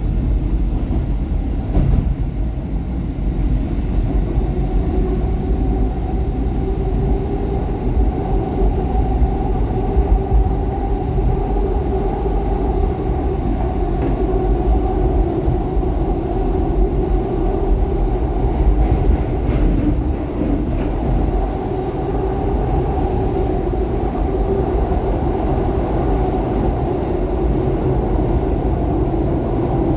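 SEPTA Market-Frankford Line subway-elevated train running steadily between stations: a continuous rumble of wheels on the rails with a steady hum over it.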